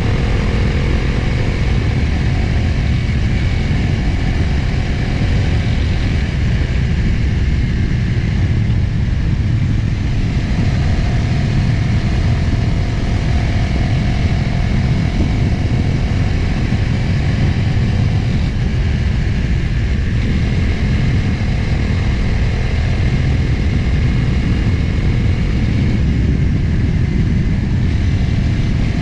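Motorcycle engine running at cruising speed, heard under heavy wind rush on the onboard microphone, with the engine note shifting pitch a few times.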